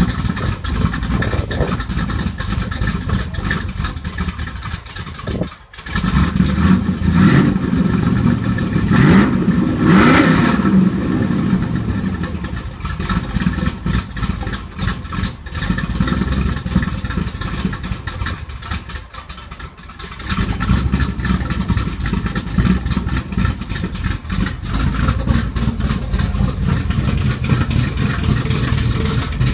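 Dodge Challenger T/A's rebuilt 340 V8 with a 10.5:1 compression ratio and a Thumpr camshaft, running. After a brief dip about six seconds in, it is revved up and down several times. It then drops back and runs steadily from about twenty seconds in.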